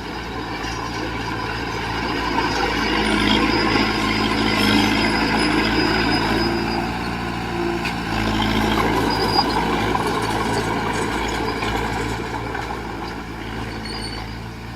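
Heavy diesel engine of an earthmoving machine working under load, growing louder about two seconds in and again around eight seconds, then easing off.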